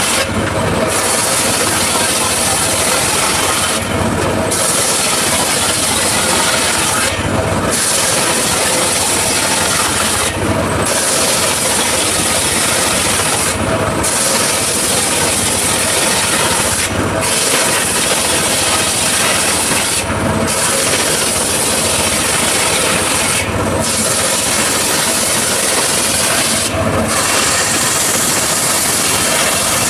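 Circular saw blade cutting teak wood, a loud continuous grinding rasp, with a brief drop in the high hiss about every three seconds.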